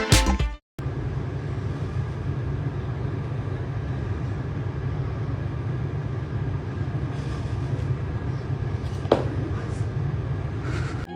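A short burst of music cuts off in the first second. A steady low rumble follows, with one sharp knock about nine seconds in.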